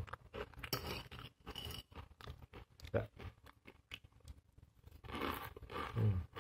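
Mouth chewing a dry, crispy fried-noodle snack, with repeated sharp crunches.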